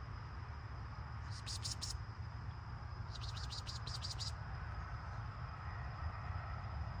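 Two short bursts of rapid, high-pitched insect chirping, about a second in and again around three seconds in, over a steady high insect whine and a low outdoor rumble.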